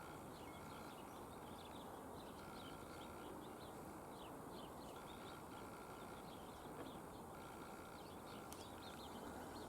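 Faint outdoor background: a steady hiss with many short, faint, high chirps of distant small birds scattered throughout.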